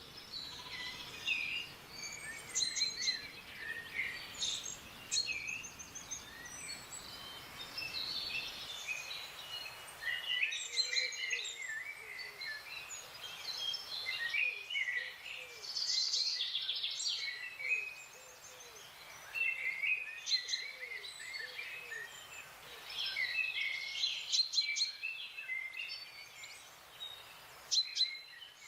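Several wild forest birds calling and singing at once: a busy chorus of overlapping chirps, whistles and quick trills. Through the middle, a low short note repeats over and over beneath the higher calls.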